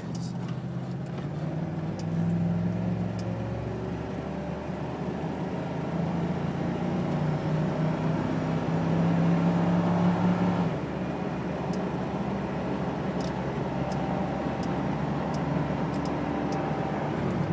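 Inside the cabin of a 1999 Ford Crown Victoria at expressway speed: road and engine noise under a steady low droning hum, the mystery hum the car makes above about 40 mph. The hum swells toward the middle and eases off about eleven seconds in.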